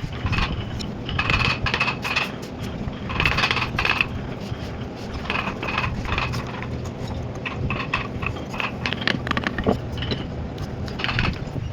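Metal hand tools clinking and scraping in short repeated bursts, typical of chisel work on a woodcarving, over a steady low hum.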